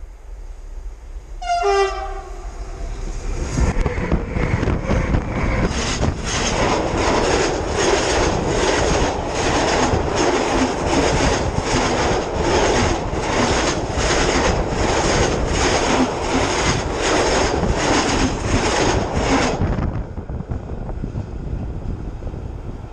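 A train sounds a short horn blast, then rolls directly over a camera lying between the rails: a loud rumble of wheels with a regular clack about twice a second. The rumble cuts off suddenly near the end as the last car clears.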